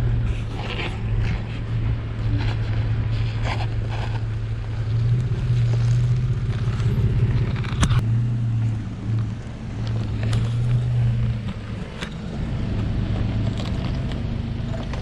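A 4x4's engine running at low revs as the vehicle crawls slowly over a rocky trail, its low hum rising and falling a little, with scattered clicks and knocks.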